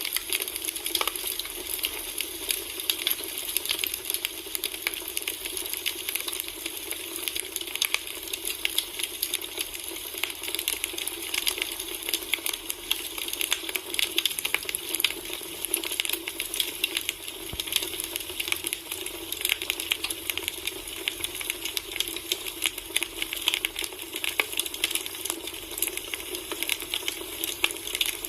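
Firewood burning in a campfire, crackling steadily with a dense, irregular stream of small snaps and pops over a soft hiss.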